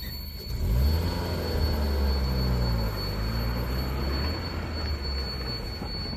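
Car engine pulling away from a standstill and accelerating, its pitch rising, dropping back about two seconds in, then rising again.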